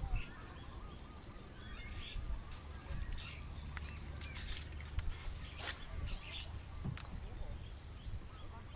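Birds chirping and calling in short, scattered calls, with a few sharp clicks and a steady low rumble underneath.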